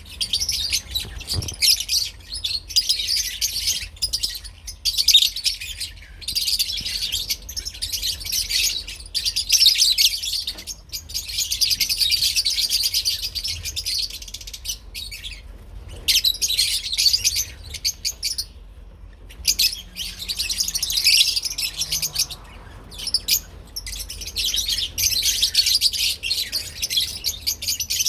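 A group of lovebirds chattering: rapid, high-pitched chirps and twitters in bouts of a few seconds, broken by short pauses.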